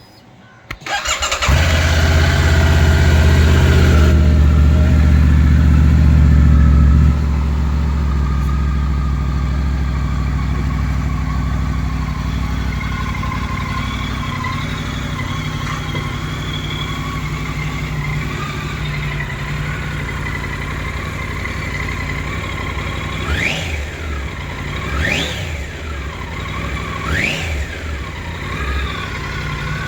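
Triumph Tiger 900 Rally Pro's three-cylinder engine started up, catching about a second in. It runs at a raised idle, then drops to a lower steady idle about seven seconds in, and is blipped sharply on the throttle several times near the end.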